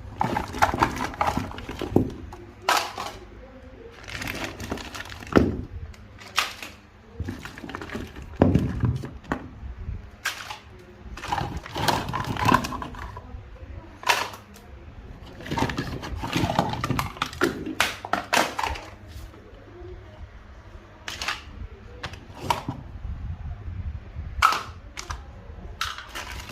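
Irregular clatter and knocks of flood-damaged power supply units being handled and moved about.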